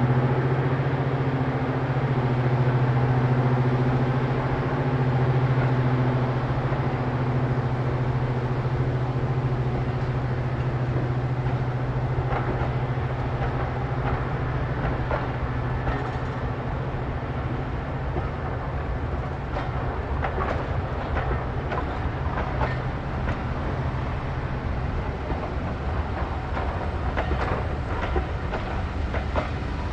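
A diesel train passing. A steady low engine drone fades over the first several seconds, then wheels click over rail joints as the train goes by, the clicks thickening in the second half.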